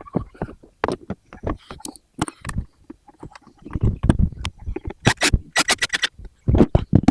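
Irregular knocks, clatter and scraping, with a quick run of sharp clicks about five seconds in.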